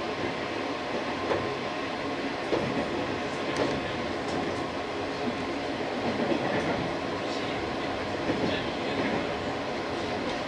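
A JR 185 series electric train running along the track, heard from on board: a steady rolling rumble with scattered clicks of the wheels over rail joints.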